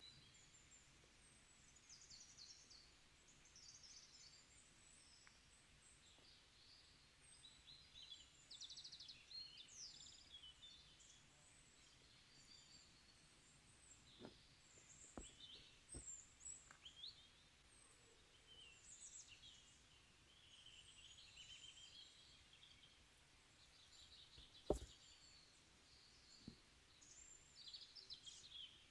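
Faint woodland ambience with small birds chirping and twittering on and off throughout, and a few brief clicks, the sharpest about 25 seconds in.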